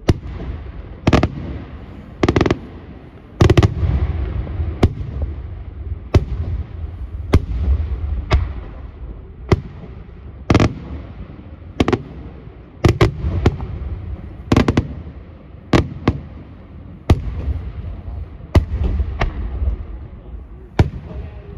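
Aerial firework shells bursting in a steady series of sharp bangs, about one a second, each trailing off in an echo over a continuous low rumble.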